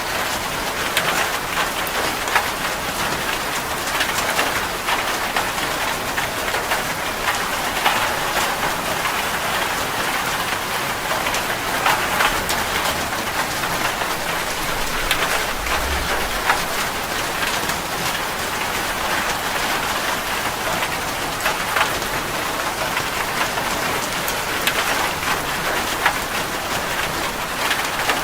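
Heavy, steady rain falling on a metal roof, a dense hiss full of the sharp ticks of single drops striking the metal.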